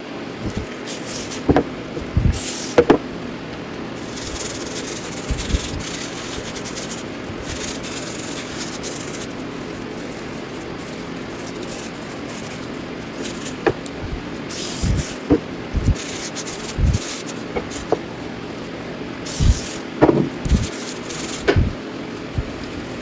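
Workshop cleanup of a steering knuckle: a steady scrubbing and rubbing noise with scattered metal clinks and knocks, a few about two seconds in and a cluster in the last third.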